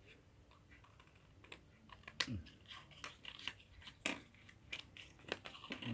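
Scissors cutting the thin cardboard of a cigarette pack: scattered snips and crackles starting about a second and a half in, with two sharper snips about two and four seconds in.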